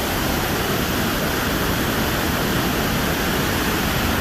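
Mena Creek Falls rushing: a loud, steady, even roar of falling water.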